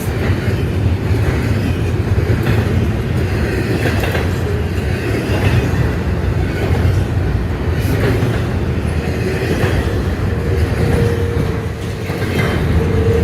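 Freight train's cars rolling past, a steady loud rumble and clatter of wheels on the rails, with a faint thin steady tone joining in over the last few seconds.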